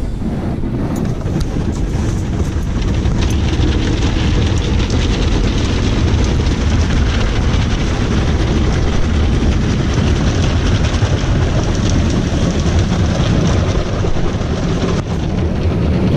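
Automatic car wash machinery working over the car, heard from inside the cabin: a loud, steady rush of water and machine noise with a heavy low rumble.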